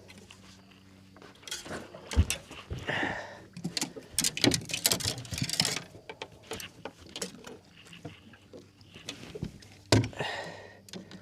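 Irregular knocks, scuffs and rustling from handling a freshly landed mangrove jack in a small boat, with a sharp knock about two seconds in and another near the end.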